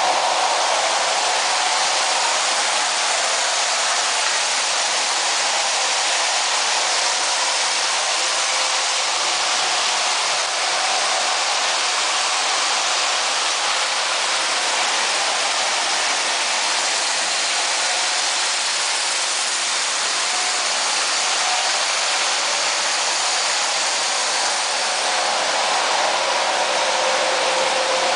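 A motor-driven blower running steadily: an even rushing hiss with a faint hum under it.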